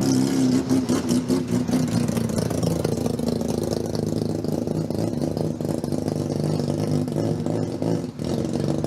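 Car engine running at high idle, with a quick run of sharp pops in the first couple of seconds and a brief drop in level near the end.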